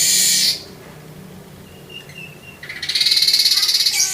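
Streaked weaver singing: a buzzy, high-pitched song phrase that stops about half a second in, then after a pause starts again about two and a half seconds in and runs on.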